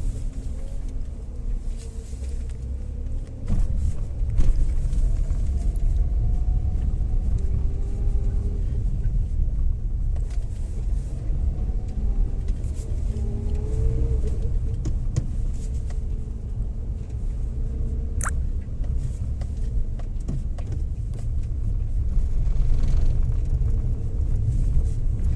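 Maruti Suzuki Alto 800's three-cylinder engine and running gear rumbling steadily on a slow test drive, with faint rising and falling engine tones and one sharp click near the end. Its repaired drive axle no longer makes the rattling vibration it had at low speed.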